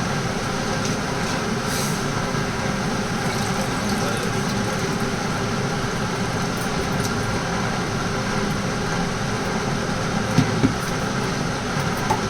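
Steady mechanical hum with a couple of short knocks near the end.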